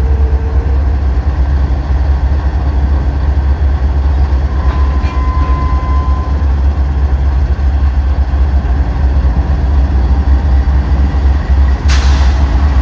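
Freight train rolling past with a loud, steady low rumble, a brief high steady tone about five seconds in, and a single sharp clank near the end.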